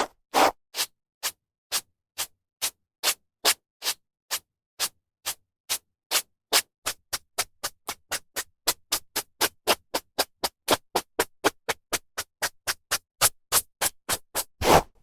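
Hairbrush drawn through hair in short, brisk strokes with gaps between them, about two a second at first, quickening to about three a second, with a longer stroke near the end.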